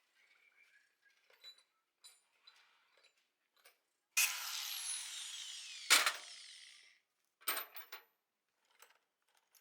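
A power tool starts suddenly and runs for about three seconds, its pitch falling steadily as it winds down. A sharp knock comes near the end of the run, and there are scattered small clicks and knocks of tools being handled.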